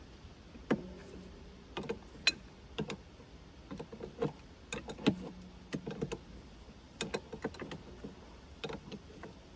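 Irregular clinks and knocks of metal tools and parts being handled while cleaning the sawmill's saw guide, a few strikes ringing briefly.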